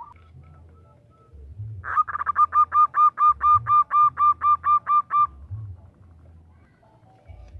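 Female zebra dove (perkutut) calling a male: a rapid staccato run of about fifteen short cooing notes, four to five a second, starting about two seconds in and lasting about three seconds.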